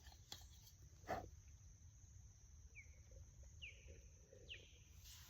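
Faint outdoor quiet with a steady high whine and a few short, falling bird chirps about a second apart in the second half, plus a single soft click about a second in.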